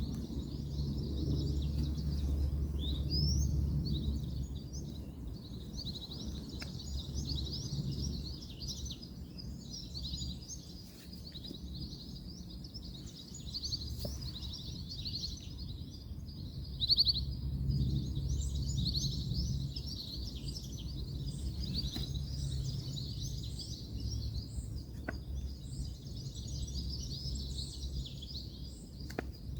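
Many birds chirping and twittering continuously over a steady low rumble of distant road traffic, with a few faint clicks now and then.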